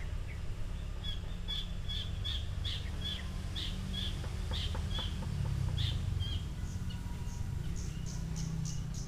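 A bird calling repeatedly in short, high chirps, two or three a second. Near the end they give way to quicker, higher notes. A steady low rumble runs underneath.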